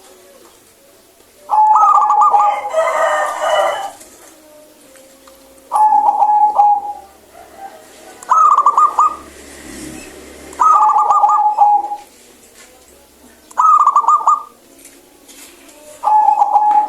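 Zebra dove (perkutut) singing: a clear, rapid trilling coo repeated about six times, each phrase about a second long with a pause of a couple of seconds between.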